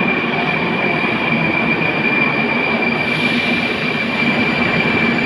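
Moscow Metro train at the platform at the end of its arrival: a steady rumble and hiss with a constant high-pitched tone running through it.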